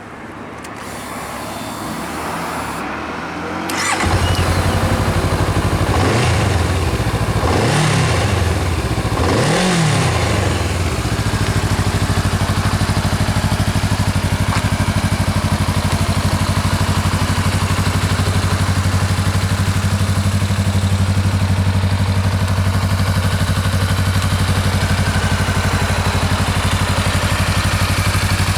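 Honda Rebel motorcycle engine through its stock exhaust, catching about four seconds in, revved three times with the pitch rising and falling, then settling into a steady idle.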